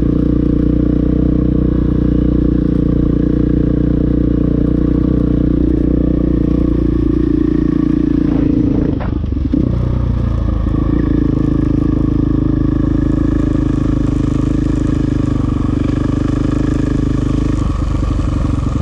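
KTM dirt bike engine running steadily under load. About nine seconds in the revs briefly drop and waver, then pick back up.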